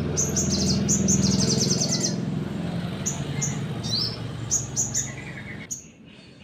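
Sunbird (sogon) singing: sharp high chirps and rapid trilled bursts, its fast shooting 'nembak' song. A low steady hum runs underneath and drops away near the end.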